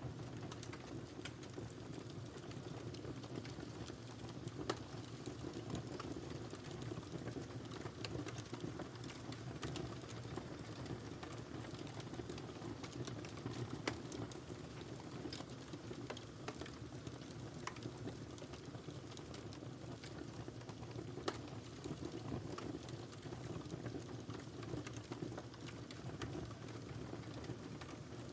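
Wood fire burning in a fireplace: a steady low rumble of flames with scattered crackles and pops, a few of them louder.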